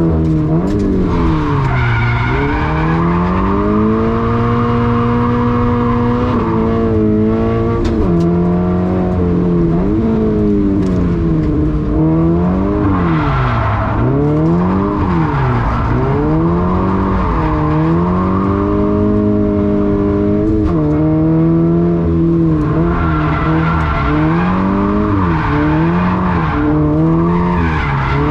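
Toyota 86 / Subaru BRZ flat-four engine running through a straight-through iConcept rear muffler, its exhaust note repeatedly falling and rising in pitch as the revs drop and climb, with a couple of steady stretches at high revs.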